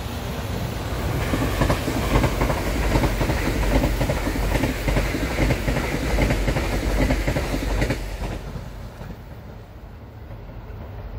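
Two coupled ITX-Maum electric multiple units passing close at speed: a loud rush of running noise with the wheels clattering rapidly on the rails. The noise drops sharply about eight seconds in.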